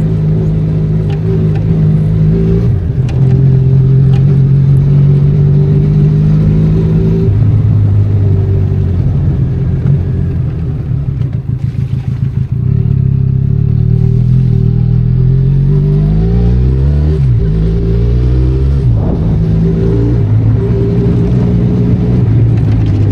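Benelli Leoncino 500 Trail's parallel-twin engine running under load as the scrambler is ridden, its pitch changing in steps. It eases off for a few seconds in the middle, then rises and falls quickly a few times about two-thirds through before running steadily again.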